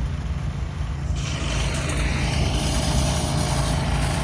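Heavy diesel engine of a truck running steadily with a low hum. A broad hiss joins about a second in.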